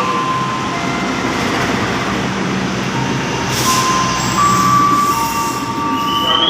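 Train running on its rails: a steady rumbling noise, with thin, high squealing tones that come and go.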